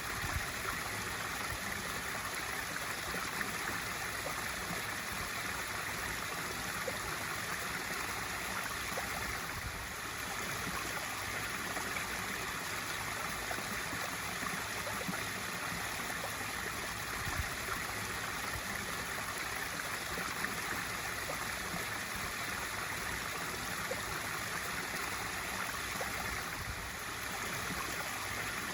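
Pool waterfall feature running: a steady, even splashing of water falling into the pool.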